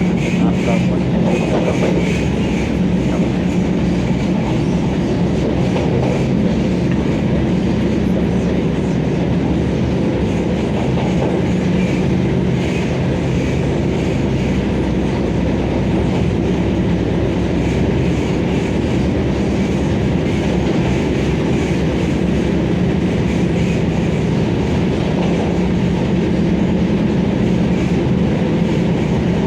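Vande Bharat Express electric multiple-unit train in motion, heard from inside the coach: a steady rumble with the wheels clicking over the rail joints.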